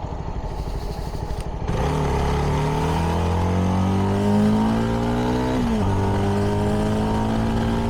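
CFMoto 300NK's single-cylinder engine through its stock exhaust, accelerating, its pitch rising steadily from about two seconds in. About five and a half seconds in the pitch drops sharply as it shifts up a gear, then it climbs again and holds.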